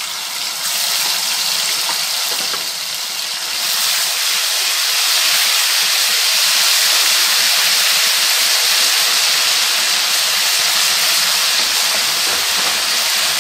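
Ginger-garlic paste sizzling as it fries in hot oil with cumin seeds in a kadai, a steady hiss that grows louder about four seconds in.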